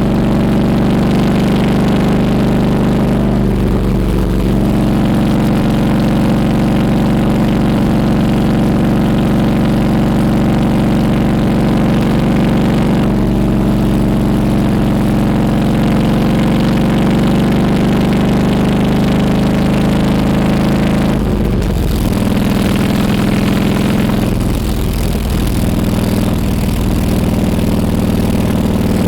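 Harley-Davidson Road King Classic's V-twin engine running loud and steady through its exhaust, its note shifting at a few points.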